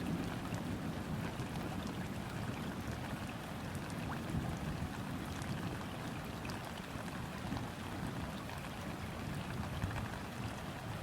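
Gentle rain falling on a river's surface, with scattered ticks of single drops, over a low, uneven rumble of distant thunder.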